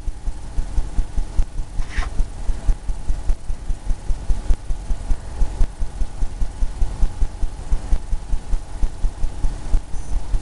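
Paintbrush working paint into a canvas on an easel with quick, repeated dabbing strokes: a steady run of low knocks, about three or four a second. A short squeak about two seconds in.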